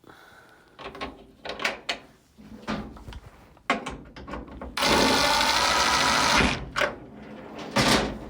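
Clicks and knocks of a bit being changed and parts handled, then a power drill driving a screw steadily for about a second and a half, and a sharp knock near the end.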